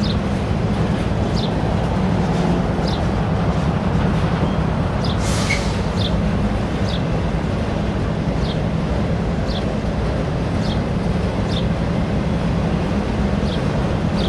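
Freight train of autorack cars rolling past: a steady rumble of steel wheels on rail, with short high chirps about once a second and a brief hiss about five seconds in.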